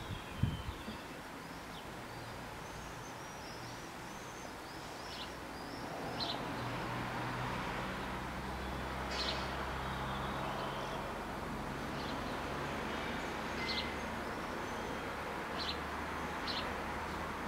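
Small birds chirping in short calls over a low steady rumble that swells about six seconds in and holds: a train approaching the closed level crossing, still out of sight.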